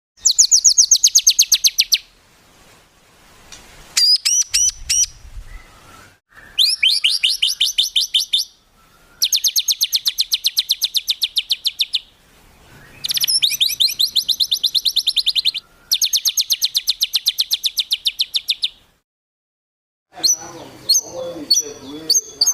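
Recorded songbird song of the kind used to tutor cage birds: rapid 'tembakan' trills of sharp, evenly repeated high notes, in several bursts of two to three seconds with short breaks between them. Near the end comes a more varied, chattering phrase.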